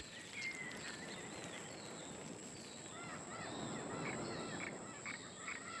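Wetland wildlife chorus: a steady high-pitched insect drone over a soft background hiss, with many short chirping calls starting about halfway through.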